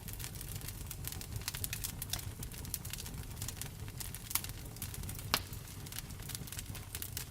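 Wood fire in a fireplace crackling with frequent irregular pops, a louder pop about five seconds in, over a steady low rumble and the hiss of rain.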